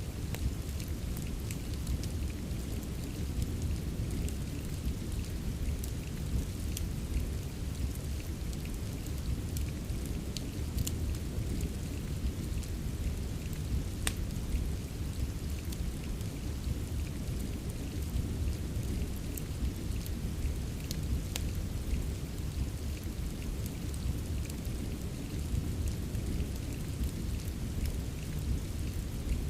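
Rain and wood-fire ambience: a steady, deep rush of rain with scattered sharp crackles and pops from the fire, one louder pop about halfway through.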